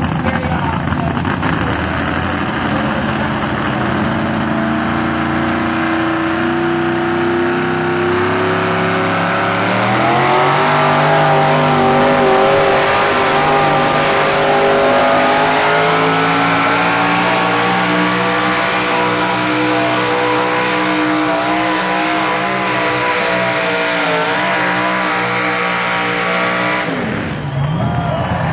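Modified-class pulling tractor's engine running at full throttle under load during a pull. Its pitch climbs sharply about a third of the way in, holds high with small wavers, and falls away suddenly near the end.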